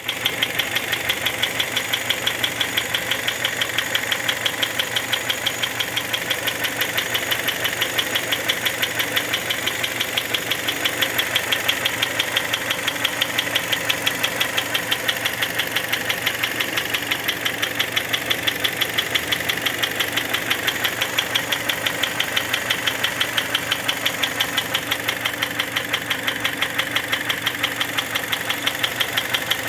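Hyundai ix35 engine running warm at idle with a regular, rapid knock riding over the engine sound, which the owner takes for piston knock.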